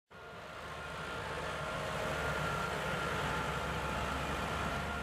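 Farm tractor engine running steadily at the pull track, its low rumble carrying a couple of faint whining tones; it swells over the first couple of seconds and then holds.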